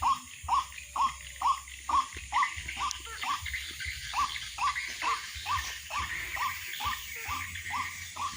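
White-breasted waterhen (ruak-ruak) calling: a steady, even run of short 'kwak' notes, about two and a half a second, over a faint background hiss.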